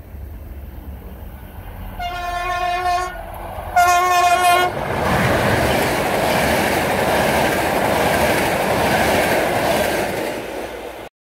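A passenger train's horn sounds two blasts, the first about a second long and the second shorter and louder. Then the train runs past close by, with the steady rush and clatter of its wheels on the rails. The sound cuts off abruptly near the end.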